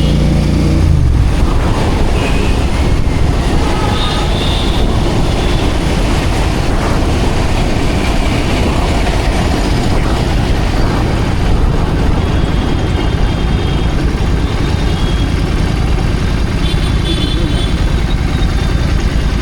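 Royal Enfield GT 650's parallel-twin engine heard while riding. Its note drops about a second in, then gives way to a steady, dense rumble mixed with rushing noise.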